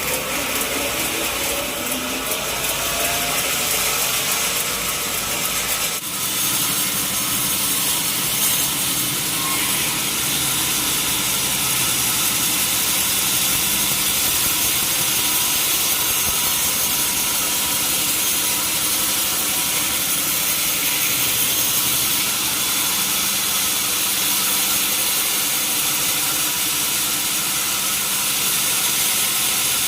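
Sawmill saw and its drive machinery running steadily, with a continuous bright hiss.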